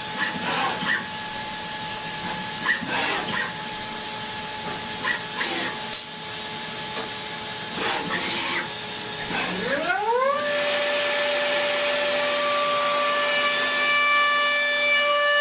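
CNC machine running with a steady hiss and a faint steady whine, broken by brief pitch sweeps; about ten seconds in a motor whine rises and then holds a steady pitch, like a spindle spinning up to speed.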